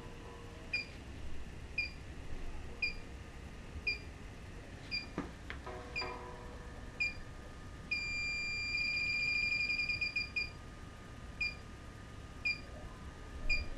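Electronic refrigerant leak detector (Inficon D-TEK Select) beeping about once a second. About eight seconds in it switches to a steady tone and then a rapid beeping for about two seconds, its alarm on sensing refrigerant. A sharp click is heard a little after five seconds.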